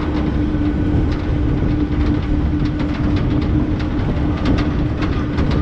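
Train rolling slowly through a station, heard from aboard: a steady rumble and hum with scattered clicks from the wheels over the rails.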